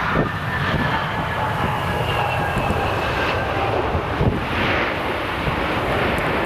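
Jet airliner engines whining as the aircraft passes, the whine falling slowly in pitch, over a low rumble of strong gusting wind.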